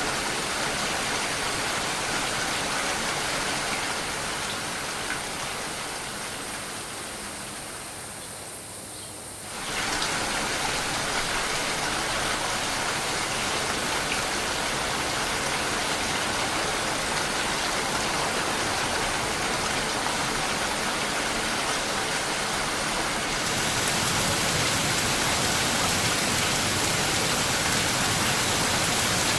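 Steady rain hiss. It fades down for a few seconds, snaps back to full level about ten seconds in, and turns brighter and hissier about 23 seconds in.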